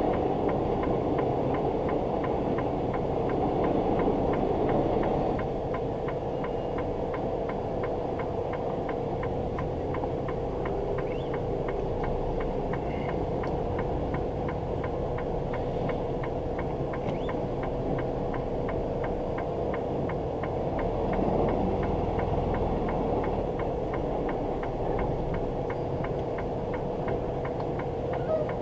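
Semi-truck's engine running with a steady hum, heard from inside the cab, with a constant drone and no marked changes.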